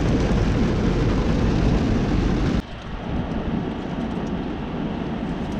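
Steady rumble and hiss of heavy rain and a truck's running noise heard from inside the cab. It cuts off abruptly about two and a half seconds in, giving way to a quieter, steady background hiss.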